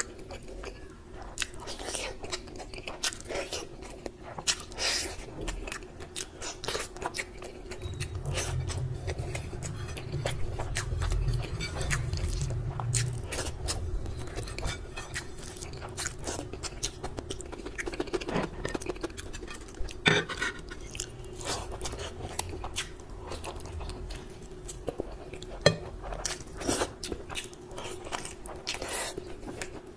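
Close-miked chewing of rice and curry eaten by hand: wet smacking and clicking mouth sounds, with fingers scooping rice off a plate. A faint steady hum runs underneath, and there is one sharp louder click near the end.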